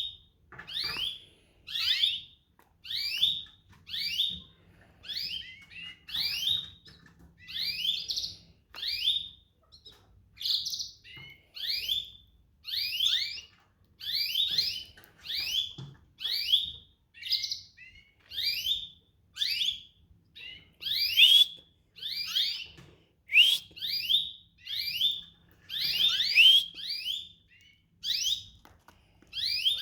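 Domestic canary giving short, high, sweeping chirps, repeated steadily a little more than once a second.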